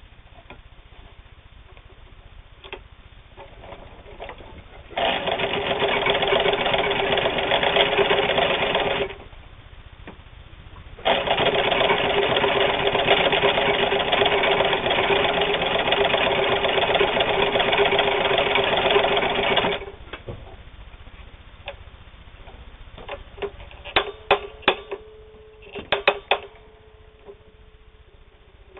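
Meister-Werke sewing machine stitching through denim in two runs, one of about four seconds and one of about eight seconds, with a short pause between. A few light clicks come near the end.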